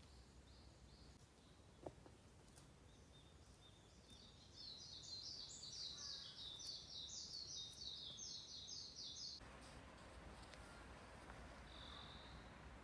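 A bird calling in a fast series of short, high chirps, about four a second, for some five seconds, over otherwise quiet outdoor background.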